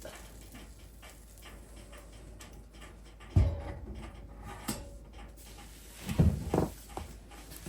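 A few knocks and thumps, the loudest about three and a half seconds in and a cluster around six seconds in.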